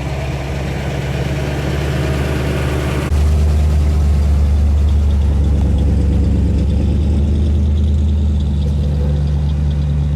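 Car engine idling with a steady, deep note; it becomes abruptly louder and deeper about three seconds in, then holds steady.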